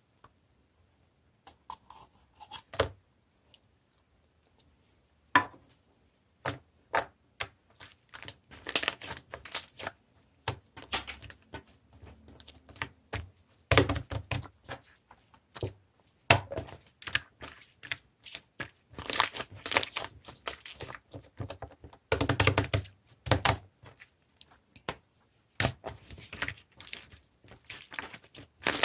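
Black sorbet-type slime being squeezed and pressed by hand, giving irregular sharp clicks and pops. The clicks are sparse at first and come thick and fast from about eight seconds in.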